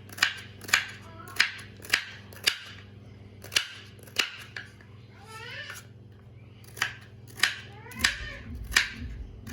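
A run of sharp clicks or knocks, about one or two a second, with a pause in the middle where a few short rising and falling calls are heard, over a low steady hum.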